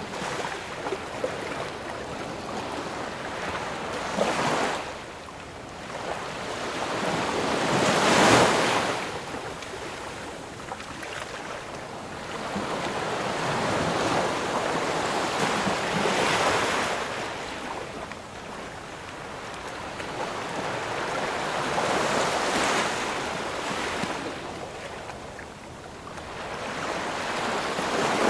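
Ocean waves breaking and washing in, the rush swelling and fading every few seconds in about five surges, the loudest about eight seconds in.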